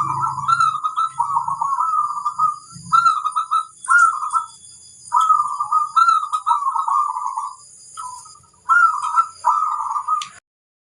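Zebra dove (perkutut) cooing: phrase after phrase of quick, rolling coos with short pauses between them. The sound cuts off abruptly near the end.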